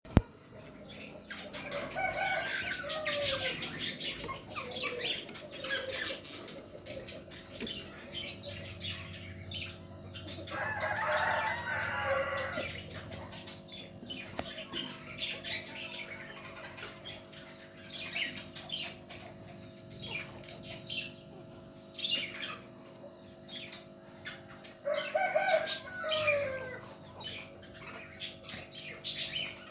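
Pet cockatiels calling, with wing flapping and many small clicks and rustles. Two calls fall in pitch, one near the start and one near the end, and a longer rasping call comes around the middle, over a steady low hum.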